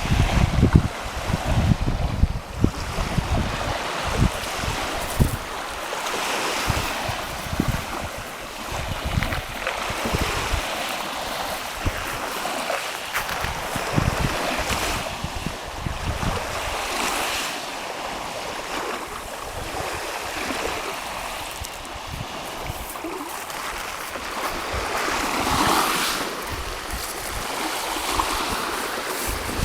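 Sea waves washing with wind buffeting the microphone; the wind rumble is heaviest in the first few seconds, and a wave swells louder near the end.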